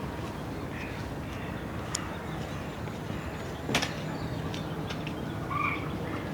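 City park ambience: a steady low rumble of distant traffic with a few short bird calls and scattered sharp ticks, the loudest about four seconds in.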